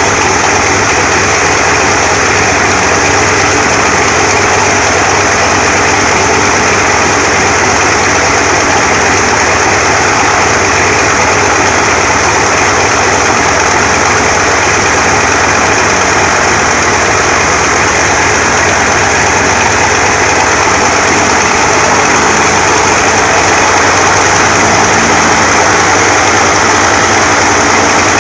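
An-2's nine-cylinder ASh-62IR radial piston engine running steadily during a ground run-up after long storage.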